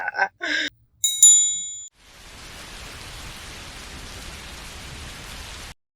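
A bright bell-like ding rings out about a second in and fades over under a second. It is followed by a steady rain-like hiss that cuts off suddenly.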